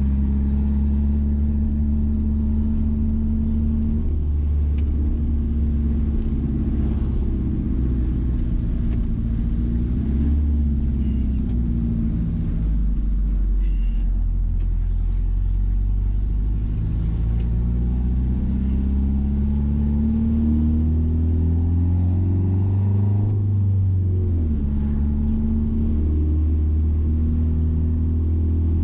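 Mazda B-series pickup being driven with its exhaust cutout open, a loud steady engine and exhaust rumble. The engine note falls, later climbs steadily, then drops sharply about three-quarters of the way through.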